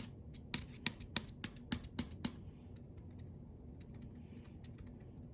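Thin plastic model-plane ski flexed hard by hand, giving a quick run of sharp clicks and crackles for about two seconds, then fainter scattered clicks. The ski was snapped in two and has been glued back with rubberized CA glue.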